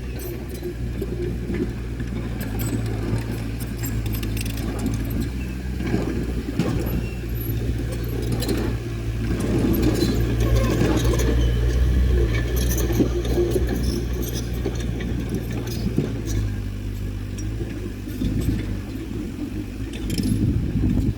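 Heavy earthmoving machine's engine running steadily, with repeated metallic clinking and clanking over it.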